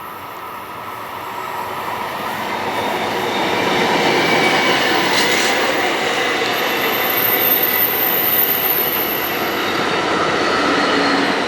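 Amtrak Pacific Surfliner passenger train with a cab car leading, rolling by on the rails: wheel and rail noise swells over the first few seconds and then holds steady. A thin high wheel squeal sounds through the middle.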